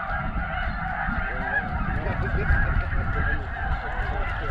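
A large flock of snow geese calling: a dense, unbroken chatter of many overlapping high honks, with a low rumble underneath.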